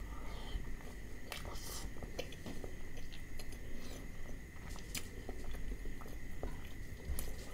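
Close-miked eating by hand: chewing and biting with scattered sharp mouth clicks as rice, mutton liver curry and egg are eaten. A faint steady high whine sits underneath.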